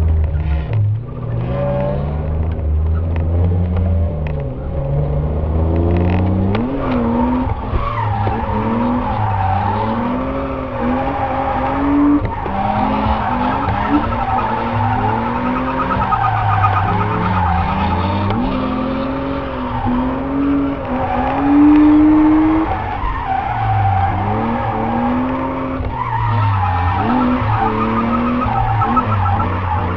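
BMW E36 328 Compact's M52B28 straight-six heard from inside the cabin, revving up and falling back again and again under hard driving, with tyre squeal over it.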